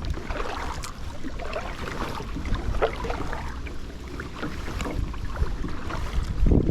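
Water splashing and trickling around a kayak, with a steady low wind rumble on the action camera's microphone and a louder splash near the end.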